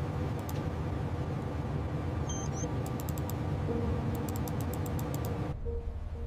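Heavy machinery running with a steady low rumble and hum, broken by several bursts of rapid clicking. Near the end the clicking and most of the hum cut off, leaving the low rumble under a few music notes.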